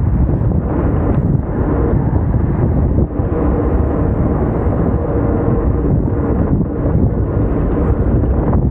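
Wind buffeting the microphone in a loud, steady low rumble.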